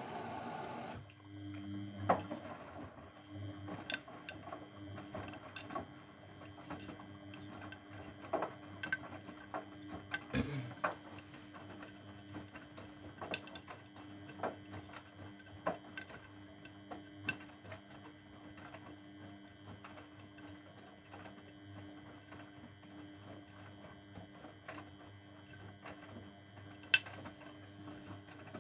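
Grundig front-loading washing machine running a wash phase of its Refresh programme. A rushing noise stops about a second in. The drum motor then runs with a steady hum and a high whine, while irregular clicks and knocks come from the turning drum.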